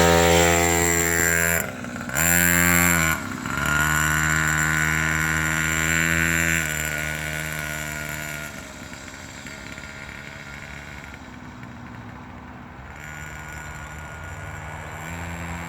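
Small motocross bike's engine revving, its pitch dropping and climbing back twice in the first few seconds, then holding steady and fading away. It grows louder again near the end.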